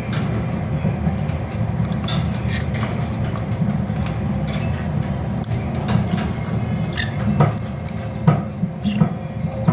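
Faint, brief high squeaks from newly hatched conure chicks, twice, with scattered light clicks and taps over a steady low hum.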